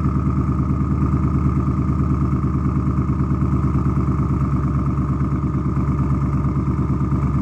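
Twin-turbo Ford Coyote 5.0 V8 idling steadily with an even, lumpy pulse, the engine still cold from its cold start.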